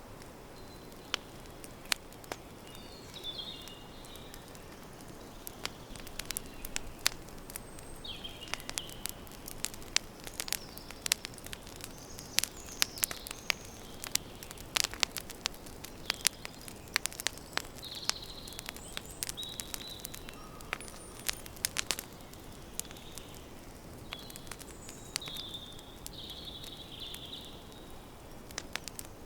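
Campfire crackling, with many sharp pops that come thickest through the middle, over a steady soft hiss of the burning wood. Short bird chirps come and go.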